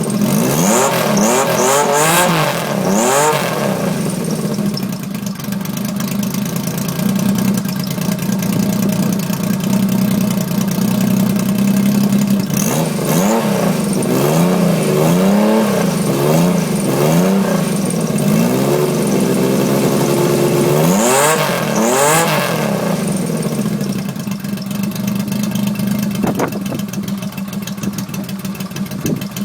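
1977 Yamaha XS750 three-cylinder engine running through a Piper aftermarket exhaust. It idles steadily and is revved in short throttle blips: a few near the start, a run of about five in the middle, and two more shortly after.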